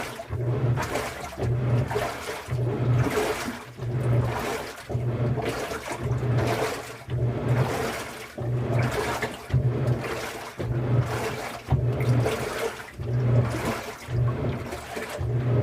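Washing machine churning water, with rhythmic sloshing surges about one and a half times a second, each with a low motor hum.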